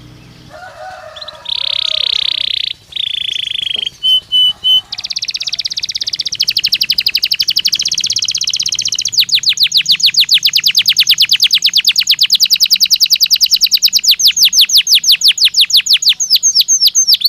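Belgian canary singing: after a few soft notes come two long held buzzy notes, then three short loud notes, then a long run of rapid trills that turns faster and louder about halfway through.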